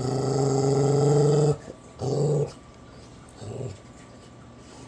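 Bully-breed dog growling three times: one long, even growl of about a second and a half, a shorter one, then a brief faint one. It is the steady growl its owner calls purring.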